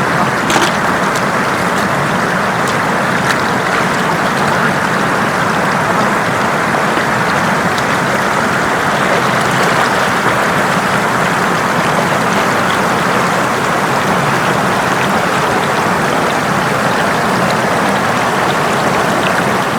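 Floodwater rushing steadily, a loud, even noise of flowing water.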